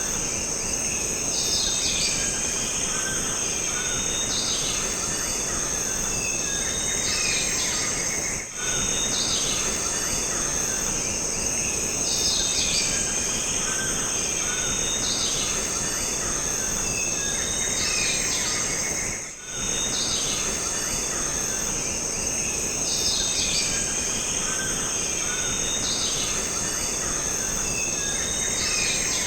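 Jungle ambience: a steady high-pitched insect drone under bird calls that repeat every few seconds, over a constant hiss of forest background. Twice, a little over a third of the way in and again about two-thirds through, the whole sound briefly dips.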